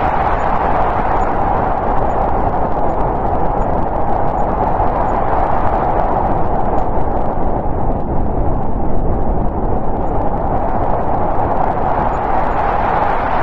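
Snowstorm wind blowing steadily as a loud, even rush, easing a little about halfway through and then swelling again.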